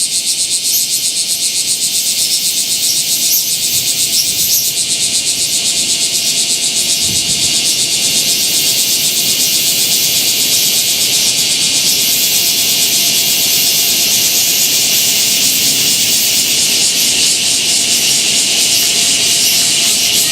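Dense chorus of many bear cicadas (kumazemi) singing together, a loud, steady, high-pitched buzzing with a fast pulsing throb.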